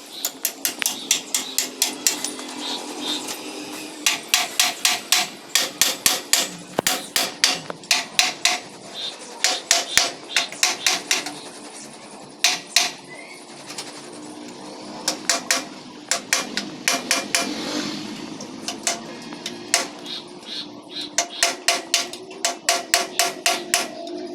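Hammer striking metal in quick runs of about three or four blows a second, each blow with a short metallic ring, pausing briefly between runs.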